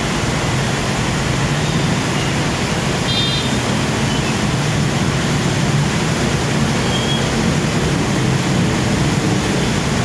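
Heavy rain falling steadily, with road traffic rumbling beneath it on a busy highway. A brief faint high tone sounds about three seconds in.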